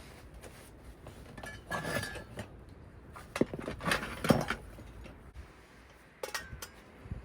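Dishes and metal utensils clinking and knocking as they are handled, in a few separate bursts, the loudest about four seconds in.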